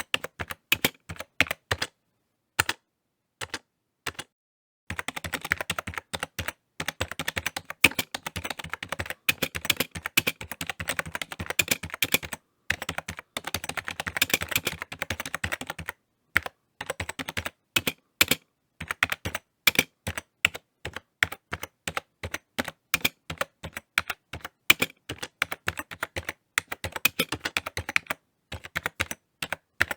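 Typing on a computer keyboard: rapid runs of key clicks broken by short pauses, the longest from about two to five seconds in.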